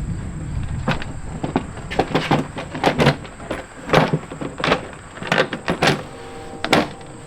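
Irregular knocks, taps and clatter of a fiberglass engine cowling being handled and fitted onto a light aircraft, with a few sharper loud knocks.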